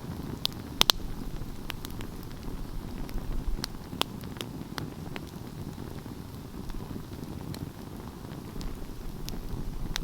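Wood fire burning: a steady low rumble of flames with scattered sharp crackles and pops. The loudest is a close pair of pops about a second in.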